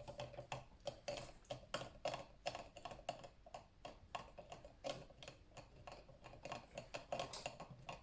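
Utensils clicking and tapping rapidly against the sides of cups as food colouring is stirred into oil, with irregular clicks several times a second.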